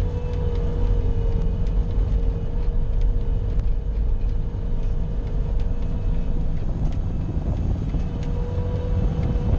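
Bobcat skid-steer loader's engine running steadily under load as it pushes and scrapes snow, a deep rumble with a faint steady whine over it.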